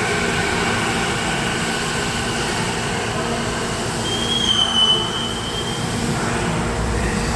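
Electric commuter train moving through an underground station, with a steady rumble. About four seconds in, a high wheel squeal sounds for about two seconds.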